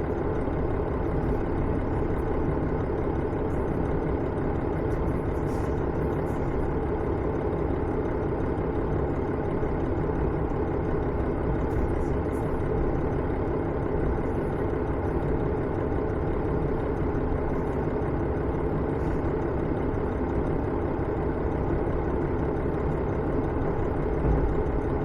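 Onboard running sound of KiHa 112-3, a KiHa 110 series diesel railcar: its diesel engine and wheels on rail make a steady rumble.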